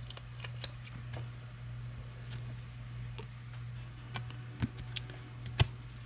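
Light clicks and taps of trading cards being handled and set down, a few sharper taps near the end, over a steady low hum.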